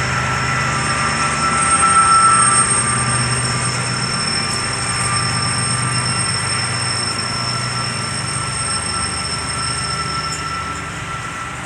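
A train passing: a steady low rumble with thin, high, steady squealing tones from the wheels on the rails. It is loudest about two seconds in and slowly fades, and the highest squeal stops near the end.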